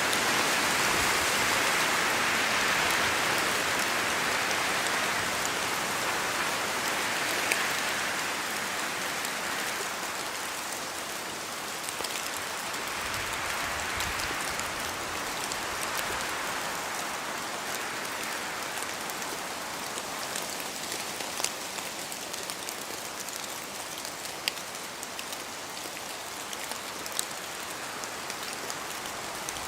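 Steady rain falling in a spruce forest, with close drops landing as sharp separate ticks, more often toward the end. Under it a hiss from wind in the trees swells and eases, strongest near the start.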